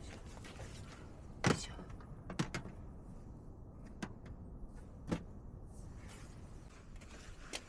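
Scattered knocks and clunks, about six spread over several seconds, the loudest about a second and a half in, over a low steady rumble.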